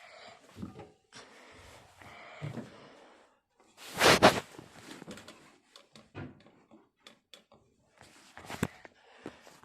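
Handling noises at a front-loading washing machine: scattered rattles and knocks, one loud clunk about four seconds in, and a sharp click near the end.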